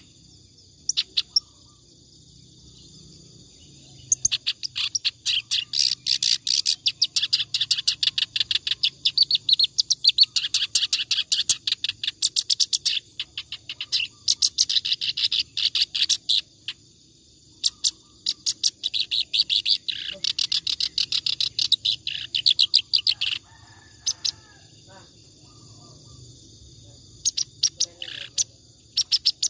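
Reed warbler (kerak basi) singing continuously in long bouts of rapid, rhythmic, scratchy high notes. There are short breaks of a second or so, and a longer pause of a few seconds about three-quarters of the way through.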